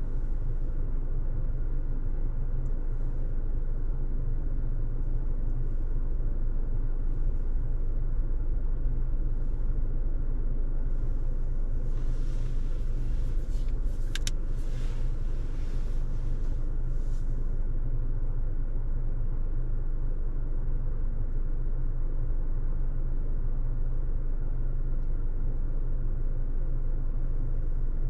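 Steady road and engine rumble inside a Honda ZR-V's cabin while driving. About halfway through, a brief hiss swells and fades, with a sharp click in it.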